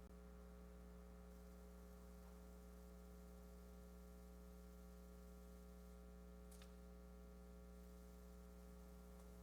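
Near silence with a steady low electrical mains hum in the sound system, and one faint click about two-thirds of the way through.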